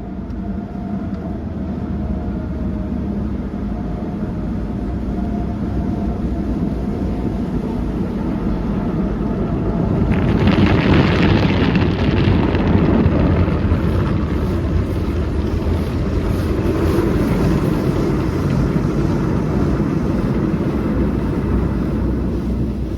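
Automatic express car wash heard from inside the car: a steady machinery rumble, then about ten seconds in a loud hissing wash stage starts suddenly and runs on.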